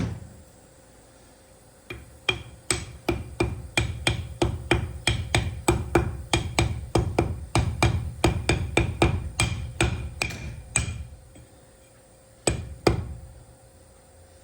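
Hammer striking metal on a truck steering column being worked on: a single blow, then a steady run of about three blows a second for some nine seconds, each ringing briefly, and two more blows near the end.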